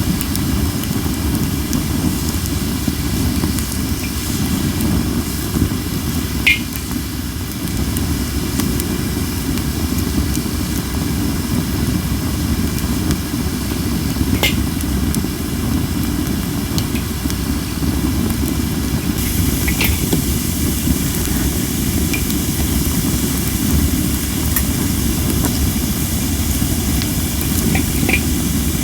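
Cherry-wood campfire burning in strong wind: a steady low rumble of wind and flames, with a hiss from the under-dried wood and a few sharp crackling pops.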